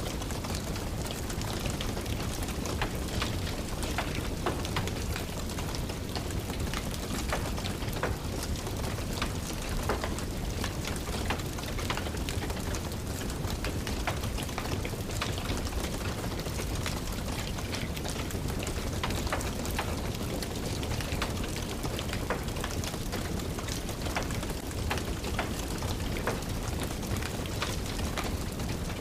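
Steady rain mixed with a crackling wood fire in a fireplace: an even hiss dotted with many small, sharp pops and ticks.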